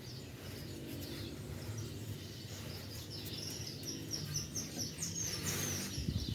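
Small birds chirping repeatedly in the background over a low steady rumble, with a brief rasping noise about five and a half seconds in.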